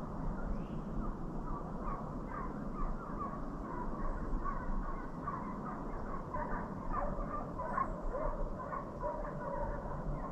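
A pack of deer hounds barking and baying in full cry as they run a deer, many voices overlapping with no break.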